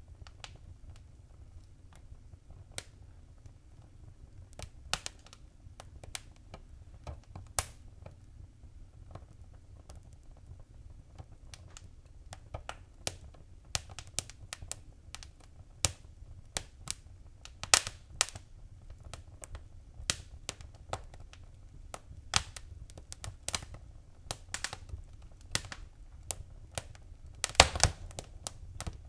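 Wood fire crackling: irregular sharp pops and snaps over a low steady rumble, sparse at first and growing busier after about ten seconds, with a dense run of pops near the end.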